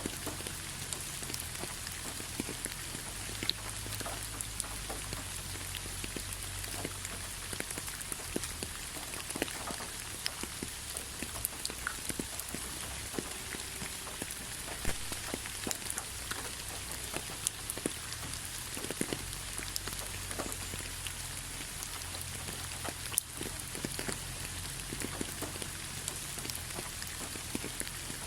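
Light rain falling steadily, an even patter of many small drop ticks, with a faint low rumble underneath.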